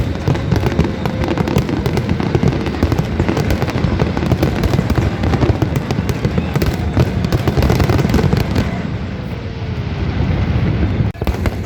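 Aerial fireworks display going off in dense, continuous volleys of booms and crackling bursts. A faint falling whistle is heard twice. The barrage breaks off for a moment near the end.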